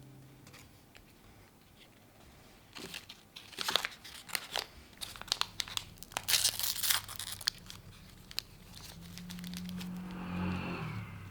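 Crinkling and crackling, a quick run of sharp rustles like something being crumpled or torn, followed near the end by a low hum that swells and fades.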